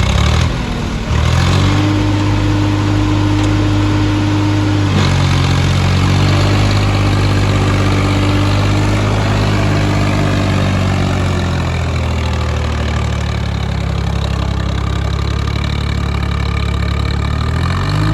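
Heavy diesel engine running, its speed changing several times: a quick rise about a second in, a slow drop about two-thirds of the way through, and a rise again near the end.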